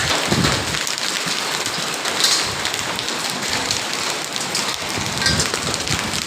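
Heavy rain falling with hail, a steady, dense hiss.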